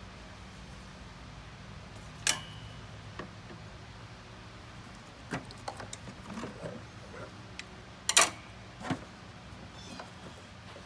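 Scattered clicks and clanks of tools and parts being handled during work under a vehicle's hood, with the loudest clatter about eight seconds in, over a low steady hum.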